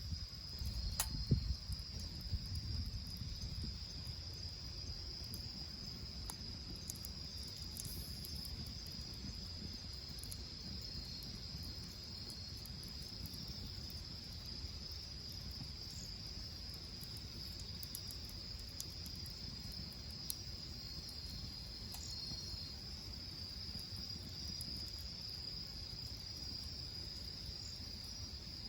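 Insects trilling in a steady high chorus, a second trill joining on and off. Low rumble underneath, with a few knocks in the first couple of seconds.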